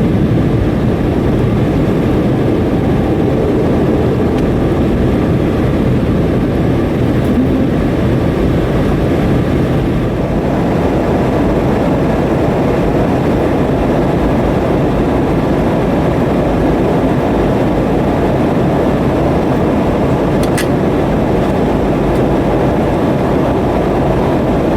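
Steady cabin noise of a Boeing 717-200 during its takeoff departure: the rear-mounted Rolls-Royce BR715 turbofans and rushing air, heard from inside the cabin as an even, heavy rumble.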